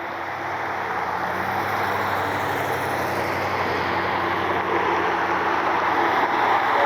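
Jet airliner engines: a steady rushing roar with a faint low hum, growing gradually louder.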